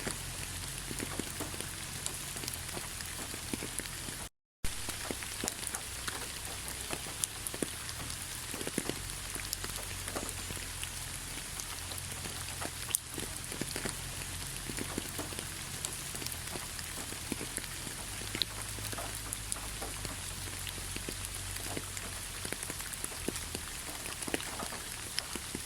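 Steady rain with many distinct, sharp drop hits over a low, even rumble. It cuts out to silence for a fraction of a second about four seconds in.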